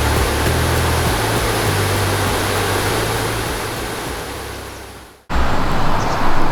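Heavy rushing of water released from a dam, fading out over about five seconds and cutting off, followed straight away by another steady rush of water.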